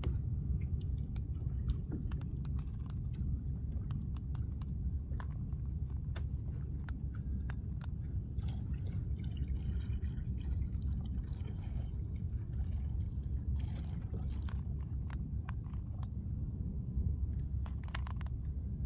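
Small waves lapping and splashing at the water's edge, with many short wet clicks over a steady low rumble.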